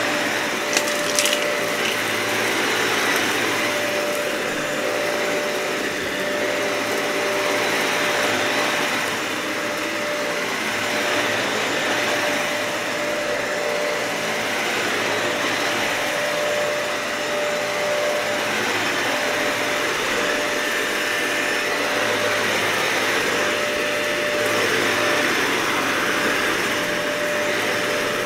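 Dyson vacuum cleaner running steadily over a matted, dirty carpet, its level swelling and easing gently with the strokes. It gives a few sharp crackles about a second in.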